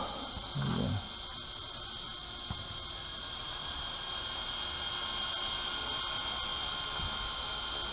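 WLToys V915 fixed-pitch RC helicopter in flight: its electric motor and rotors give a steady high-pitched whine, a little louder after a few seconds.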